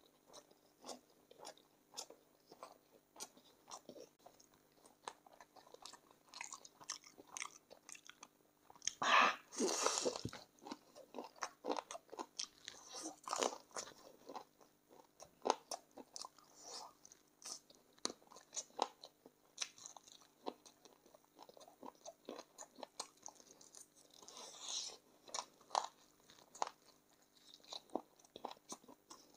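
Close-miked eating of spicy chicken feet: irregular wet crunching, biting and chewing on skin and cartilage, with mouth clicks. The loudest moment is a longer burst of noise about nine seconds in.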